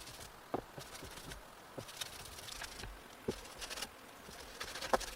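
Scattered light knocks and taps, irregularly spaced, the sharpest one near the end.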